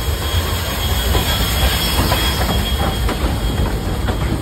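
Steam locomotive No. 480 and its open passenger carriages rolling slowly past. Under a steady low rumble, the wheels click over the rail joints, and a thin high wheel squeal fades out about two-thirds of the way in.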